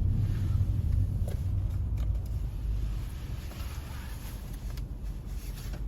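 Low steady rumble, easing off slightly in the second half, with a few faint ticks.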